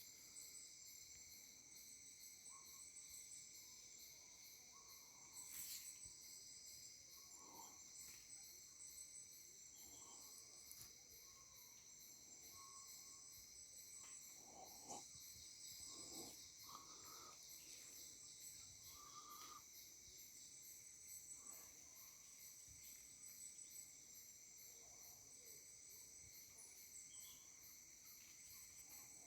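Faint, steady high-pitched chorus of insects, with a few short soft calls scattered through.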